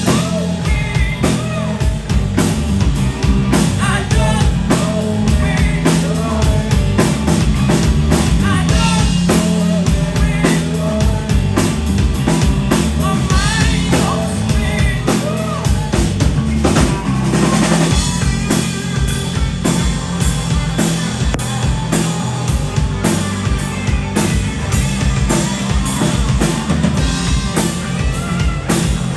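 A band playing a song live, with a drum kit beating a steady, busy rhythm under singing.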